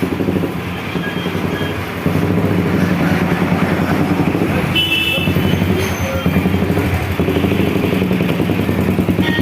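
Road traffic passing close by, with motor-vehicle engines running. It grows louder about two seconds in as a vehicle comes near.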